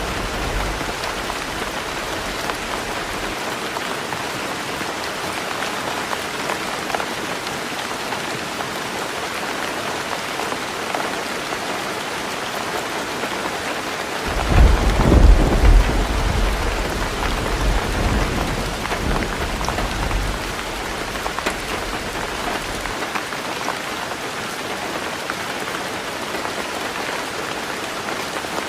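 Heavy rain drumming steadily on a tin roof. About halfway through a thunderclap breaks in, loudest for a second or two, then rumbles on for several seconds.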